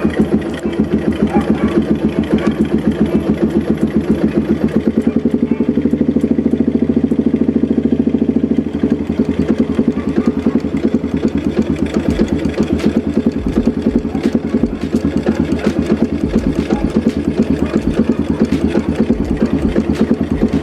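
Yamaha Jupiter MX motorcycle engine running at a steady idle, with a rapid even exhaust pulse.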